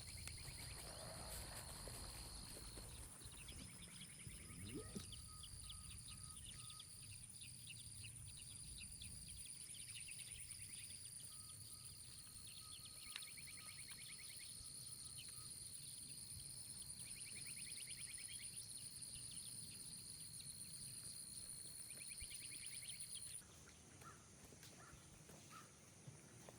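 Faint chorus of insects: a steady high trilling with a rasping chirp repeating about every two seconds. The chorus cuts off suddenly near the end, leaving quieter sound with a few soft clicks.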